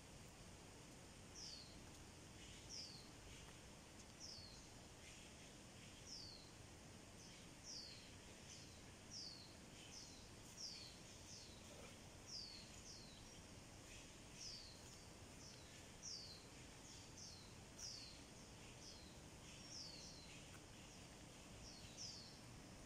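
A bird calling faintly: short, high notes that slide downward, repeated about once a second and coming a little faster after the first few seconds, over a low steady background hiss.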